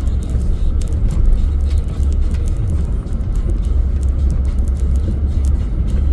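Pickup truck driving through deep snow in four-wheel-drive low, heard from inside the cab: a steady heavy low rumble of engine and road noise, with frequent sharp irregular ticks.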